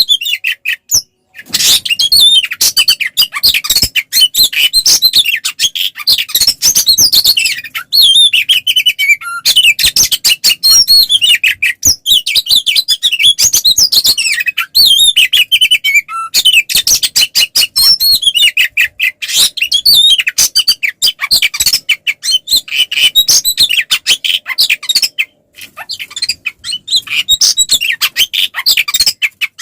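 Oriental magpie-robin (kacer) singing continuously in fast, loud, varied phrases of high whistled and chattering notes, with short breaks about a second in and again near the end. It is the full-voiced, combative song (ngeplong tarung) of a bird in fighting mood.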